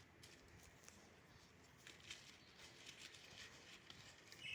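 Faint rustling and crinkling of shredded newspaper being stuffed into a folded paper plate, in small scattered ticks. A short high chirp sounds near the end.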